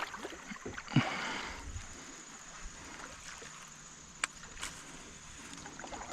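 A small splash in the river beside a kayak about a second in, then quiet water lapping with a couple of light clicks from the boat or tackle.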